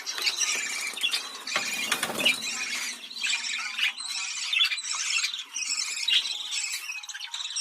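Budgerigars chattering and warbling continuously, a dense mix of high-pitched chirps, squeaks and short squawks from several birds, with a few sharp clicks. This is the excited chatter that budgerigars make in breeding condition.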